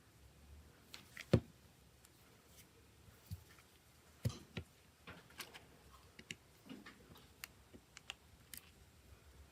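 Scattered small clicks and taps of tools and parts on a smartphone being worked on, with two sharper knocks about a second and a half in and about four seconds in, then a run of lighter ticks.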